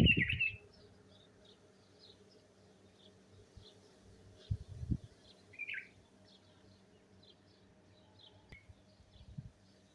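Small birds chirping in a steady run of faint short chirps, with louder calls at the start and about six seconds in. Gusts of wind rumble on the microphone at the start, around five seconds in and near the end.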